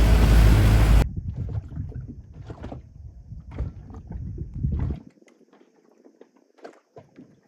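Wind buffeting the microphone, cut off abruptly about a second in. After that come fainter scattered rustles and knocks over a low rumble that drops away about five seconds in.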